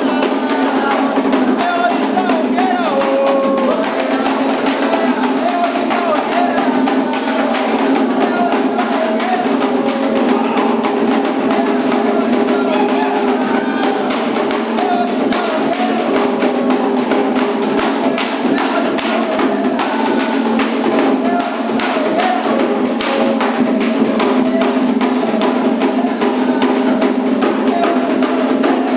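Candomblé ritual music: atabaque drums beating a steady, continuous rhythm under group singing.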